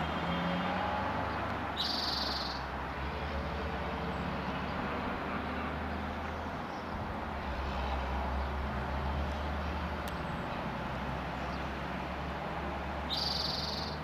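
A bird perched in a tree gives two short, high songs, one about two seconds in and another near the end, over a steady low background rumble.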